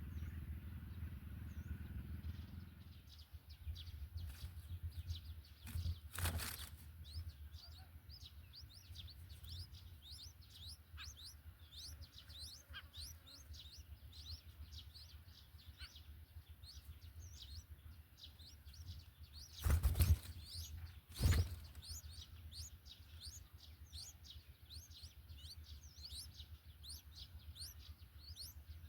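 Small birds chirping in a rapid, steady run of thin, high, falling chirps, several a second. A few loud thumps cut in, one early and two close together about two-thirds of the way through.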